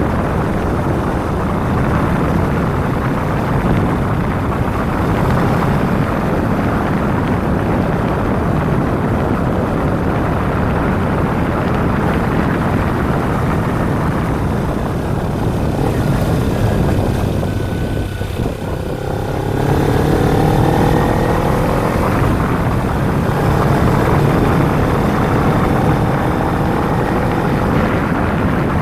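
Kawasaki Ninja 250's parallel-twin engine under heavy wind rush on the microphone while riding. The noise dips briefly about two-thirds of the way through, then the engine is heard rising in pitch twice as the bike pulls away and accelerates.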